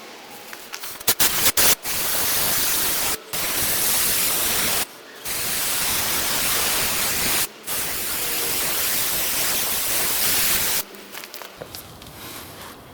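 Aerosol can of upholstery spray adhesive being sprayed: a few short spurts about a second in, then four long hissing sprays of one to three seconds each with brief pauses between, stopping about eleven seconds in.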